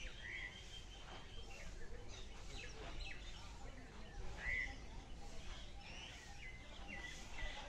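Wild birds chirping and calling in short, repeated notes, with two louder chirps about half a second and four and a half seconds in, over a low steady rumble.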